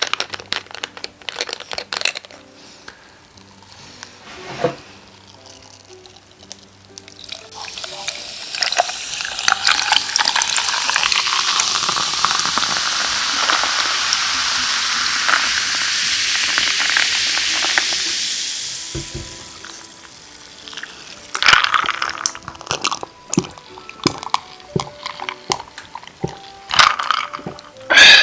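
Liquid poured into a glass for about ten seconds, the pitch rising as it fills, with scattered taps and clicks before and after.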